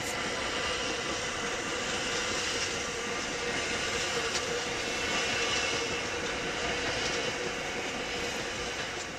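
A steady mechanical rumble with a few faint clicks, easing off slightly near the end.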